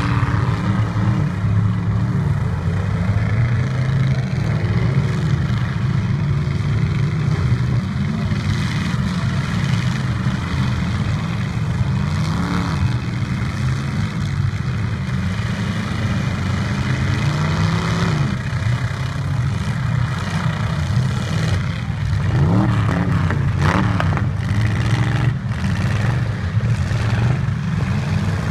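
Derby trucks' engines running and revving hard, the pitch rising and falling, with a few sharp knocks near the end.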